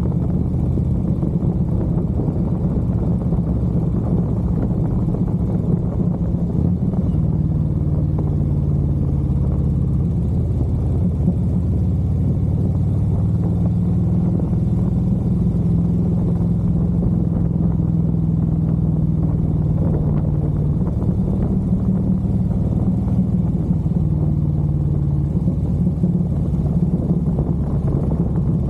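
Harley-Davidson V-twin motorcycle engine running steadily while riding, its note shifting up and down a little with speed.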